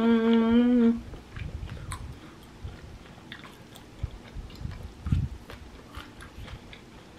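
A held "mmm" hum for about the first second, then close-up chewing of tteokbokki rice cakes: soft wet mouth clicks and low muffled chews, with a louder bite about five seconds in.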